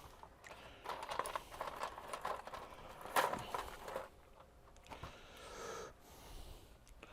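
Faint, irregular handling noises on a workbench: light knocks and scraping, with a sharper click about three seconds in.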